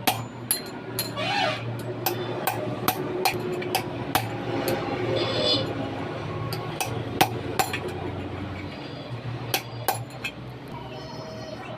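Irregular sharp metallic taps and clinks of hand tools striking truck brake parts.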